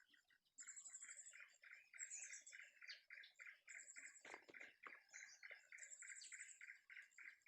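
Faint forest birdsong: a steady run of short calls about four a second, with high, rapid trilling phrases every second or two. A brief knock sounds about four seconds in.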